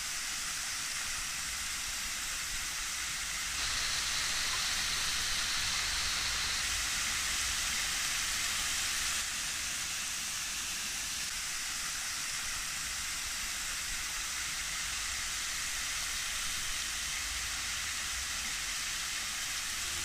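Narlıdere limestone waterfall splashing, thin streams of water falling onto rocks and into a shallow pool. A steady rushing hiss, a little louder from about four to nine seconds in.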